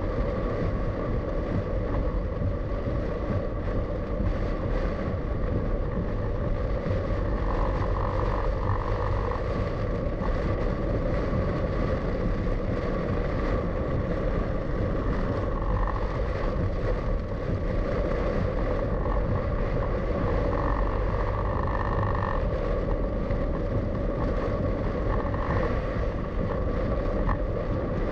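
A car being driven, its engine and tyres giving a steady road noise with a low rumble.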